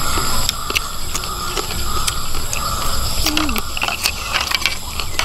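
People chewing and crunching green papaya salad, with irregular wet clicks and smacks of eating, over a steady high background hum. A short murmur comes about three seconds in.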